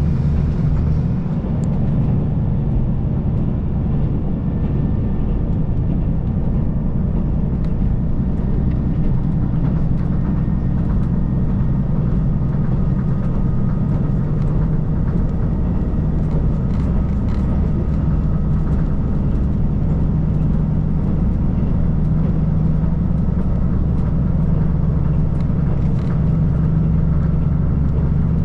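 KiHa 185 series diesel express train running along the line, a steady low drone of diesel engine and rail rumble.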